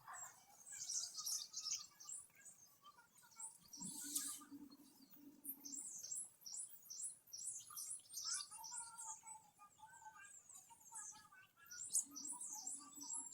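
Small birds chirping: many short, high-pitched chirps repeating throughout, with some lower warbling notes now and then.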